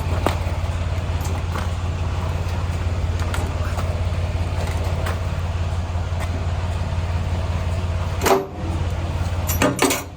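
Semi-truck diesel engine idling with a steady low hum, with faint scattered clicks over it. A loud knock comes about eight seconds in and a cluster of clunks near the end, after which the hum drops away.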